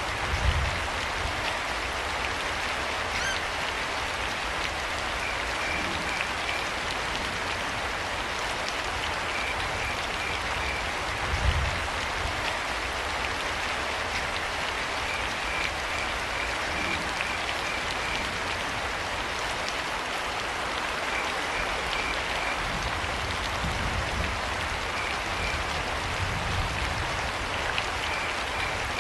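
Steady rain falling, with crickets chirping in short runs of quick high pulses every few seconds. A few dull low thumps sound through it, the strongest about eleven seconds in.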